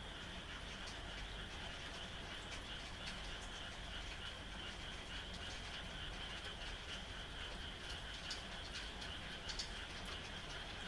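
A chorus of frogs calling steadily at night, a continuous high-pitched din, with rain falling. Short sharp ticks are scattered throughout, and one louder tick comes near the end.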